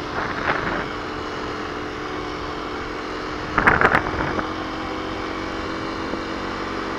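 A 2021 Kawasaki KLX250's single-cylinder engine running at a steady cruise while the bike is ridden, with wind rushing past. A louder brief burst comes a little past halfway through.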